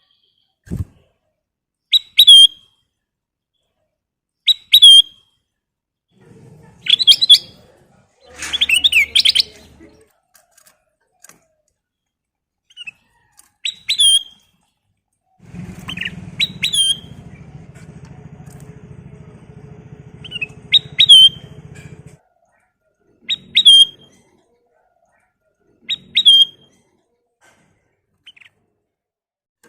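A kutilang emas bulbul giving short, sharp, whistled call notes that flick downward in pitch, one every two or three seconds, sometimes doubled. A low background rumble comes and goes under the calls.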